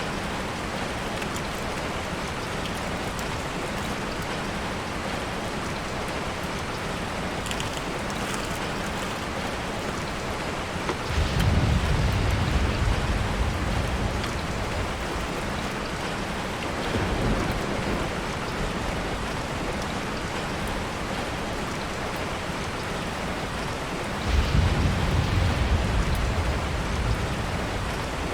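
Steady rain falling on a tarp shelter. Two low rumbles swell up, about eleven seconds in and again near the end, each lasting about three seconds, with a weaker one in between.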